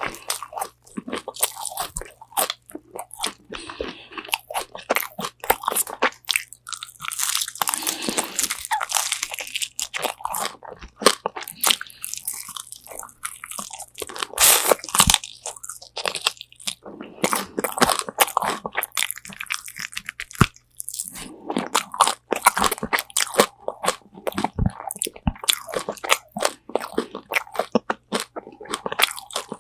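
Close-miked crunching and chewing of crispy Korean fried chicken wings, with bites into the crust and rapid, irregular crackles throughout.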